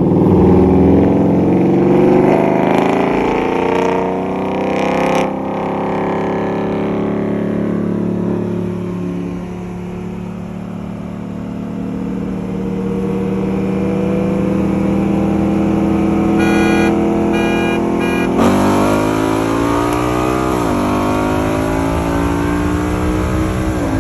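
Performance car engines rolling along at part throttle. Three short beeps are followed by a hard full-throttle pull, the engine pitch climbing steeply, dropping at an upshift and climbing again.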